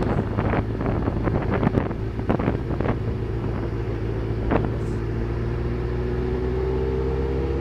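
Engine drone, steady and low, with a string of clicks and rattles over the first few seconds; its pitch rises slightly near the end.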